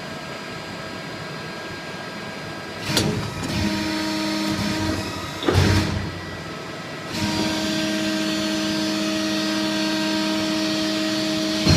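Tube-bending machine working on 76 mm exhaust tubing: a steady machine hum, broken by a clank about three seconds in and another about five and a half seconds in. After each clank a louder steady hum sets in as the machine runs under load.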